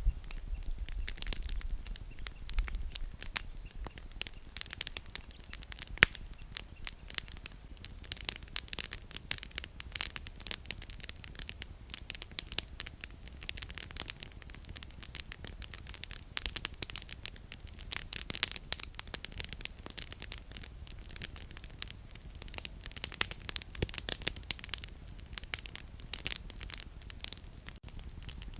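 Campfire of burning firewood crackling, with dense quick snaps and a few louder pops.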